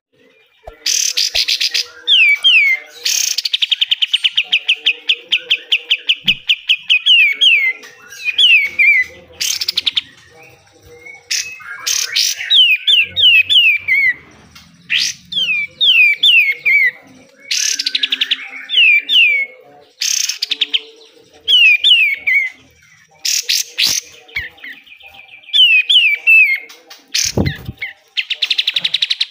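Kapas tembak (katem) songbird singing in bouts: loud harsh chattering bursts alternate with rapid trills and runs of quick notes that slide downward in pitch. A single low thump comes near the end.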